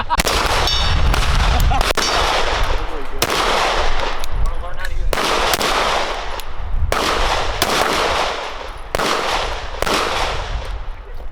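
Gunshots: a string of single shots about a second apart, irregularly spaced, each with a trailing echo.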